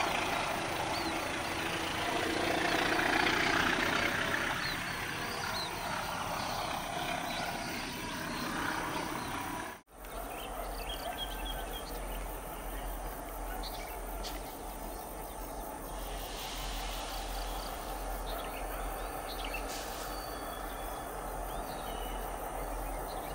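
A passenger train running away on the rails, a steady rumble and wheel noise, with birds chirping. After a sudden cut about ten seconds in, CC 205 diesel locomotives creep forward with a low, steady engine hum, birds chirping and a few light clanks over it.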